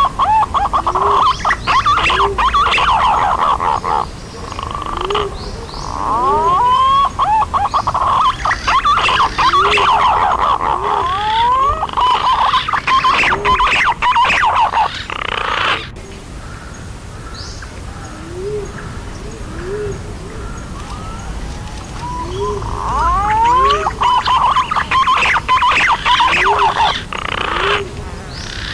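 Green pigeons (punai) calling in three long bouts of rapid, rising, wavering whistles, with quieter gaps between. Short low arched notes repeat steadily underneath the whole time.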